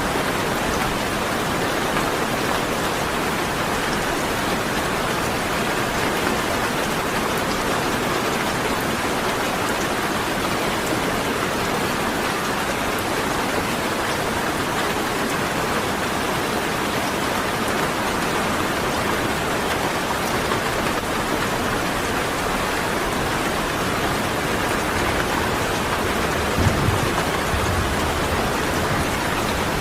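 Steady rain falling, an even, unbroken patter, with one brief low thud near the end.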